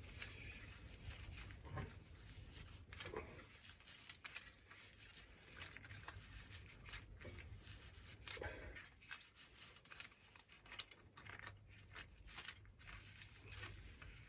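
Faint, scattered clicks and light scrapes of small parts being handled: a lawnmower pull-start's recoil coil spring being worked back into its housing.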